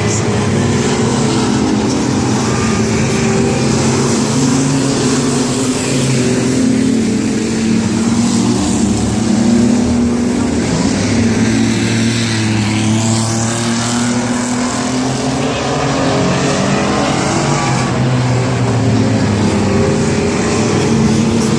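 Several racing truck engines running hard around an oval track, their pitch rising and falling as they lap. One passes close about twelve seconds in.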